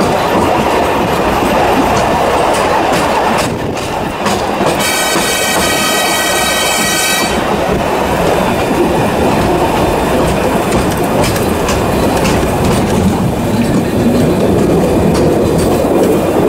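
Small tourist train running along the track, heard from inside a carriage: a steady rumble and rattle of wheels on rails. About five seconds in, a shrill pitched tone sounds for about two and a half seconds.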